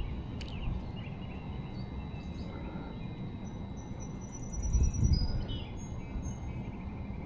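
Small birds chirping faintly, with a short high trill near the middle, over a steady low rumble. The rumble swells louder for about a second about five seconds in.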